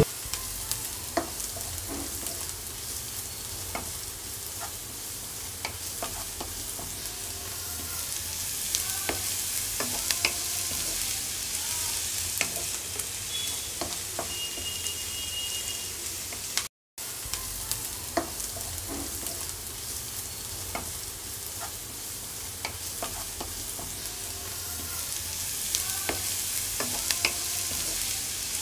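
Green chillies and chopped garlic sizzling in hot oil in a nonstick kadai, stirred with a wooden spatula that clicks and scrapes against the pan. The sound cuts out briefly about two-thirds of the way through.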